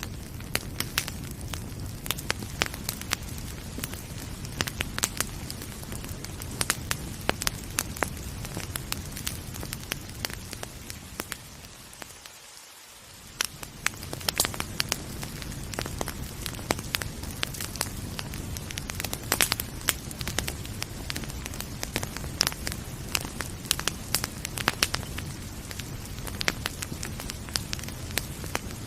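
Wood fire crackling with frequent sharp pops over a steady hiss of rain. About twelve seconds in the whole sound fades down for a moment, then comes back.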